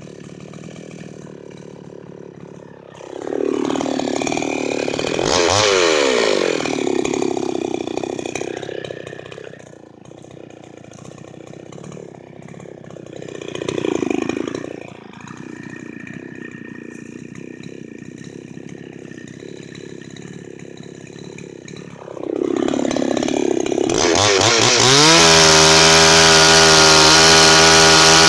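Two-stroke chainsaw idling and being revved up and down several times, then held at full throttle near the end with a steady high whine.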